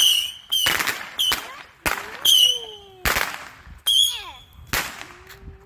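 A string of firework or firecracker bangs going off in quick succession, about seven sharp reports roughly half a second to a second apart, several followed by a brief high shriek.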